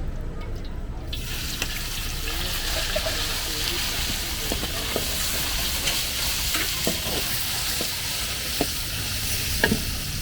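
Food sizzling as it is stir-fried in a hot wok, starting about a second in, with a metal spatula clicking and scraping against the pan.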